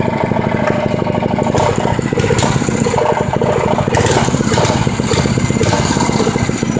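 Mini bike's small petrol engine running steadily with a rapid, even firing beat, just after it was got started.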